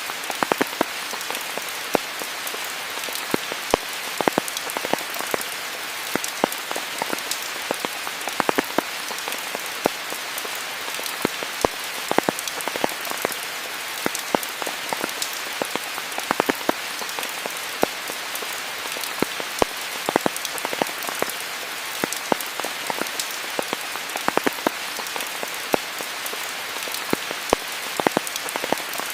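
Steady rainfall: an even hiss with many sharp drops pattering close by.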